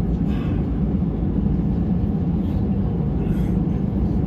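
Airbus A319 cabin noise in flight: the steady low rumble of the jet engines and rushing air.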